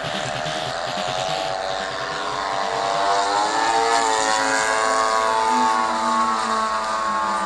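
Propeller engine of a radio-controlled aerobatic airplane running in flight, its pitch rising and falling and its sound growing louder through the middle as it passes.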